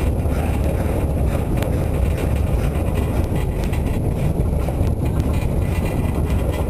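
Steady running rumble of a narrow-gauge train, heard from an open wagon, with wind buffeting the microphone throughout.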